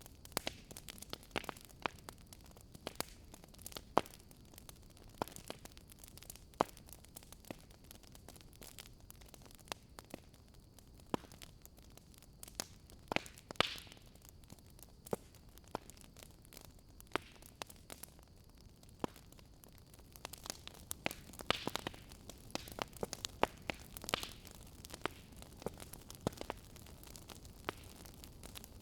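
Wood fire crackling in a fireplace: irregular sharp pops and snaps over a soft steady hiss of burning, with a few louder pops in the second half.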